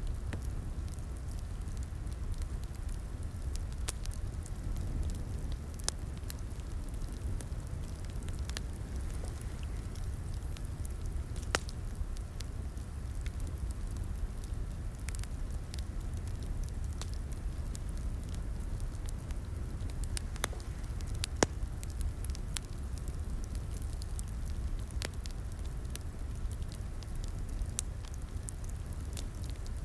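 Wood fire in a fireplace crackling steadily over a low rumble of flames, with irregular pops and snaps, a couple of them louder than the rest.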